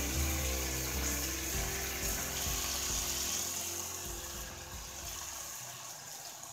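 Chicken and carrots sizzling in a pot, over background music. Near the end, water is poured in from a pitcher and the sizzle fades.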